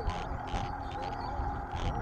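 Mountain-bike riding noise: a low rumble with scattered light rattling clicks, over a steady high tone.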